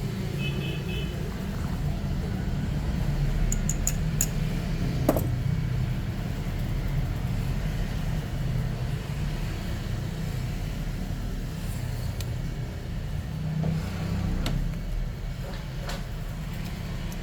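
A steady low background rumble, with a handful of small sharp clicks and taps; the loudest comes about five seconds in.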